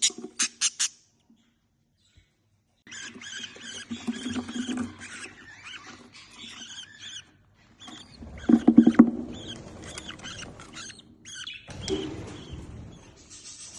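Budgerigar chattering and warbling: a quick run of sharp chirps in the first second, a short pause, then continuous twittering chatter that is loudest about eight seconds in.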